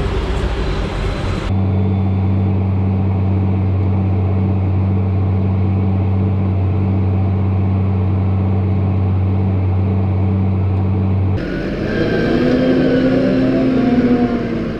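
Tractor engine running with a steady low drone. The sound changes abruptly about a second and a half in and again near the end, where the engine note rises and falls.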